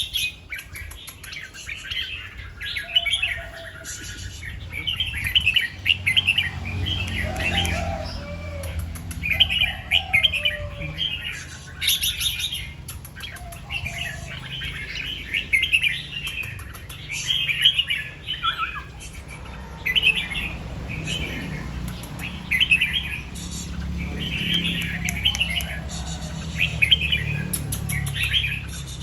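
Red-whiskered bulbul singing, short bright warbled phrases repeated every second or two, over a steady low rumble.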